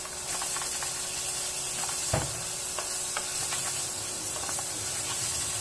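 Ground shallot, green chilli, ginger and garlic paste sizzling in hot oil while a spatula stirs and scrapes it around a metal pressure pan, with scattered scraping ticks, one sharper about two seconds in. The paste is being sautéed until its raw smell cooks off.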